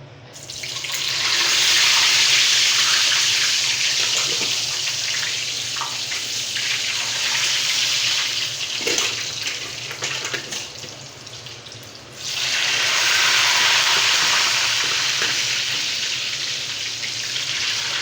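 Potatoes frying in hot oil: a loud sizzle that starts about half a second in and eases over the next ten seconds, then surges again about twelve seconds in. A few light knocks of a utensil are heard.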